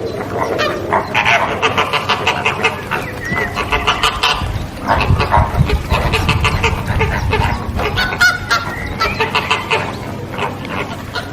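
A flock of flamingos calling, many goose-like honks overlapping in a continuous chorus, with a low rumble underneath through the middle.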